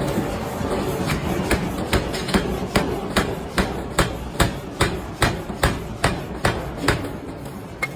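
Hammer blows on steel being forged, striking in a steady rhythm of about two to three blows a second, with the last blows spaced more widely near the end.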